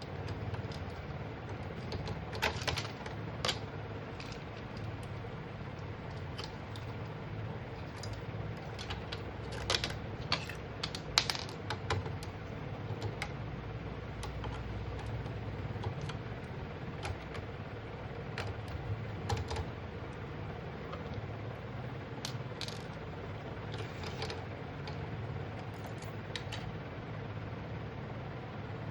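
Scattered light clicks and taps, irregular and in short clusters, over a steady low hum; the busiest cluster comes about ten to twelve seconds in.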